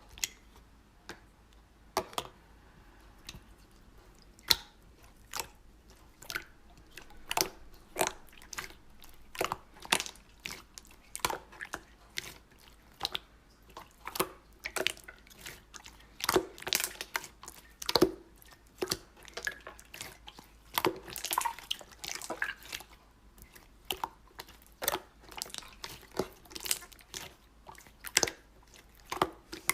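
Slime being squeezed and pressed by hand, giving irregular sharp clicking pops of trapped air, at times several a second.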